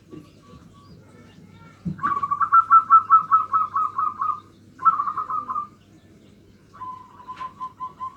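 Zebra dove (perkutut) cooing in the 'nutut' style, a local bird's voice used as a lure call. It gives a fast run of short coo notes, then a shorter run after a brief gap, then a softer, slightly lower run near the end. Fainter coo notes are heard at the start.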